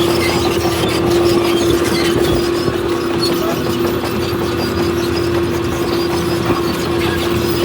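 Heavy diesel earthmoving machinery running steadily under load, with a constant whine held throughout and a faint clatter.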